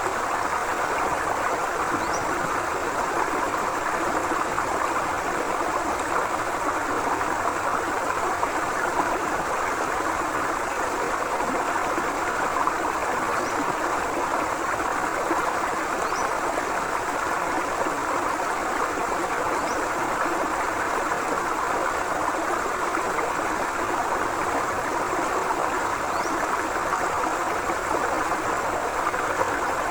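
Forest river flowing steadily: a constant rush of moving water. A few faint, short, high chirps come every few seconds.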